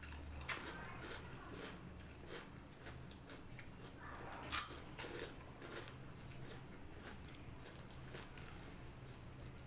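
Close-up mukbang eating sounds: a person chewing and biting mouthfuls of food, with soft smacking clicks and two sharp louder clicks, about half a second in and about four and a half seconds in.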